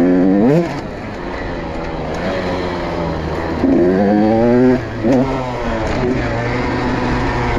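Motorcycle engine revving up and dropping back twice as it is ridden through the gears, with steady engine noise in between.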